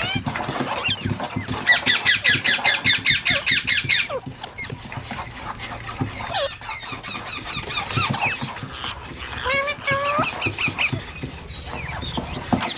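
Green parrot calling: a fast run of sharp, evenly repeated chirps, about eight a second, from roughly 2 to 4 seconds in, then scattered squeals and short whistled glides.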